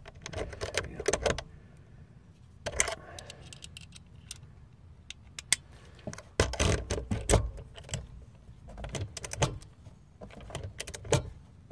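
Irregular metallic clinks, clicks and scrapes from hand work on roof vent parts, coming in scattered clusters: about a second at the start, then around three, six to seven and a half, nine, and ten and a half to eleven seconds in.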